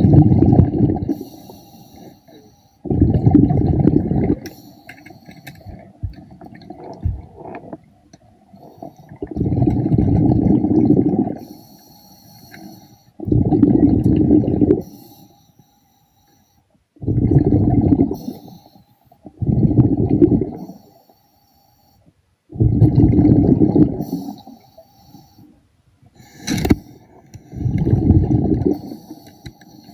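Scuba diver breathing through a regulator underwater: a loud rumble of exhaled bubbles every few seconds, with a faint hiss of inhalation between them.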